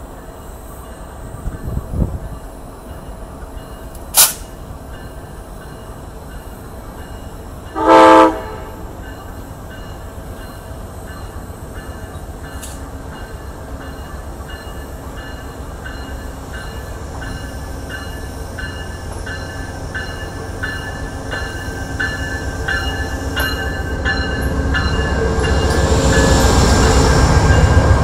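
Amtrak train with a GE Genesis diesel locomotive approaching: one short horn blast about a third of the way in, then wheel clicks over the rail joints and a rumble that grow steadily louder as the locomotive passes close by near the end.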